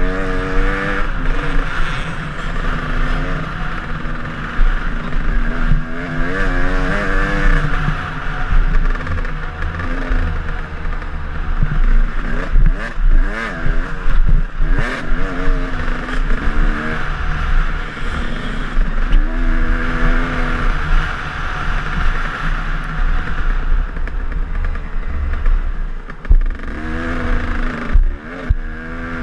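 KTM enduro dirt bike engine revving up and falling back again and again as it is ridden along a trail, with steady wind rush on the mount-side microphone. Sharp knocks and clatter come through, most of them about halfway through.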